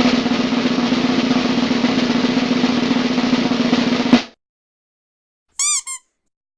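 Snare drum roll sound effect, cutting off abruptly about four seconds in. Near the end come two short high tones whose pitch bobs up and down.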